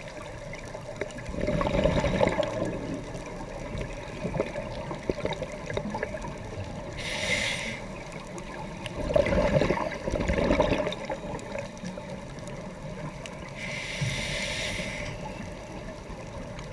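Scuba diver breathing through a regulator underwater: two short hissing inhalations from the regulator, and two longer bursts of exhaled bubbles gurgling past the camera.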